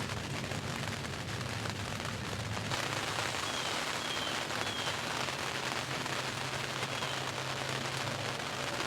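Steady rain falling, growing louder about three seconds in, with a few faint high chirps.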